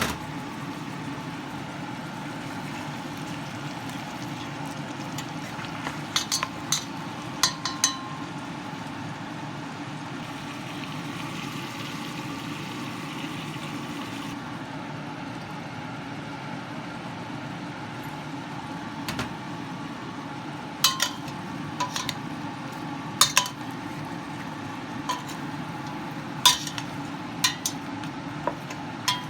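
Metal cutlery clinking against a plate now and then, a few clinks at first and more often in the second half, over a steady low hum.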